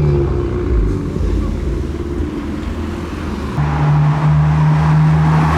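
Car engines running at a low steady idle-like note. About three and a half seconds in, the sound switches abruptly to a different, louder engine drone.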